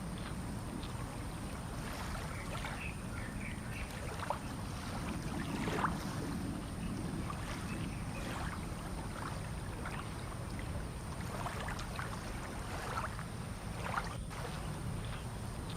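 Fishing-port waterside ambience: a steady low rumble with short, scattered higher-pitched sounds every second or so.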